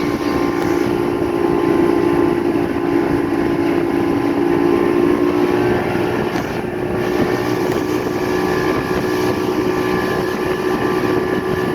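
Motorboat engine running steadily under way, with wind and water rushing past.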